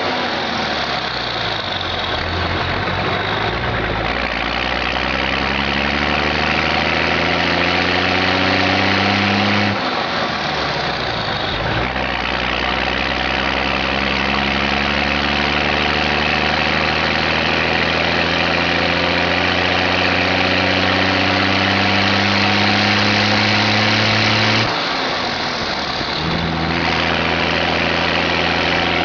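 M35A2 deuce-and-a-half army truck's multifuel diesel engine pulling up through the gears. The engine note rises steadily, breaks and drops at a gear change about ten seconds in, climbs again for a long stretch, then drops at another shift near the end and holds steady.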